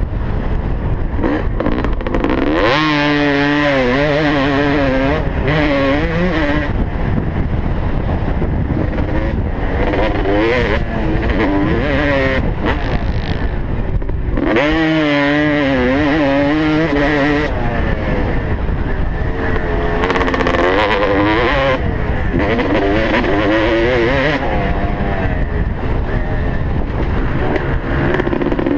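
Motocross bike engine revving hard and repeatedly climbing and falling in pitch as it accelerates, shifts and backs off, over heavy low wind rumble on the helmet camera's microphone.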